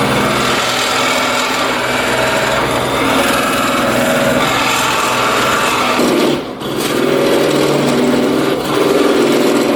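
Electric power tool running steadily, working on a part, with a brief dip in the sound about six and a half seconds in.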